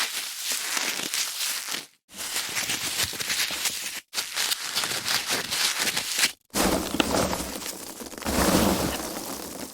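Foam packaging being handled, a crackling, rustling rub of foam in stretches of about two seconds, broken three times by a brief moment of silence.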